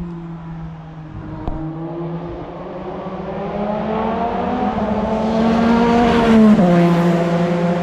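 Formula One car engine on the adjacent circuit, heard from the park: it grows louder with its pitch climbing steadily, then drops sharply in pitch about six and a half seconds in and runs on at the lower pitch.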